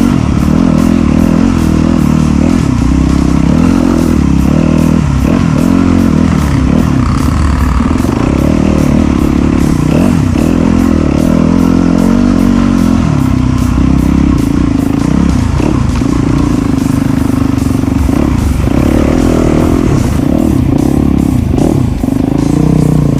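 Off-road trail motorcycle engine running under load, its revs rising and falling as it rides.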